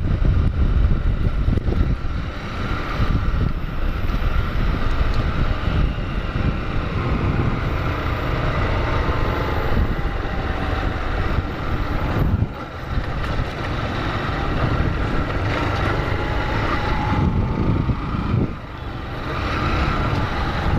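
Honda Fan 150 motorcycle riding along, its single-cylinder engine running under wind noise on the camera microphone. The sound dips briefly twice, about twelve and eighteen seconds in.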